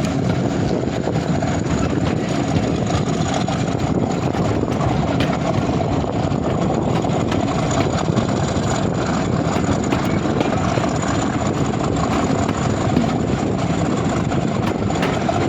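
Steady, loud running noise of a diesel-hauled train on the move: the heavy drone of a Class 50 diesel locomotive's engine mixed with rolling noise from the rails.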